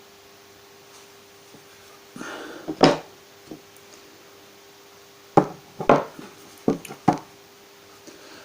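Wooden knocks and clunks from guitar parts being handled and set on a workbench: a scrape and a knock about two to three seconds in, then four or five sharp knocks in quick succession a little past halfway.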